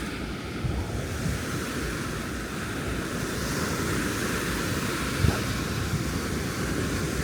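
Ocean surf washing onto a beach, with wind rumbling on the microphone. A brief thump about five seconds in.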